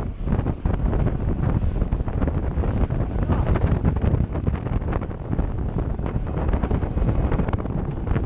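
Strong wind buffeting the microphone on a fishing boat under way on choppy open water, with a dense low rumble and many irregular jolts.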